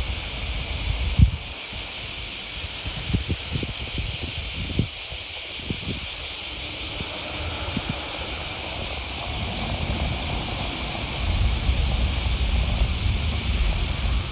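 A steady, rapidly pulsing chorus of insects, with low wind rumble on the microphone that swells near the end. A sharp low thump comes a little over a second in, and a few softer knocks follow over the next few seconds.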